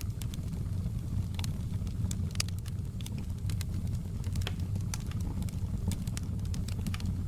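Wood fire burning in a fireplace: a steady low roar of flames with frequent irregular crackles and pops from the logs.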